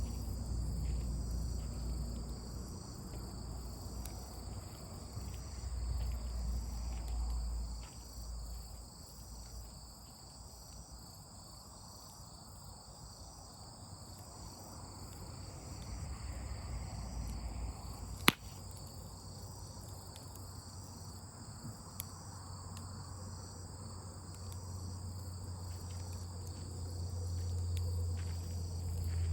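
Crickets or other night insects chirping steadily in a high, pulsing chorus. A single sharp pop comes about 18 seconds in, with a fainter tick a few seconds later, and a low rumble rises and falls under it all.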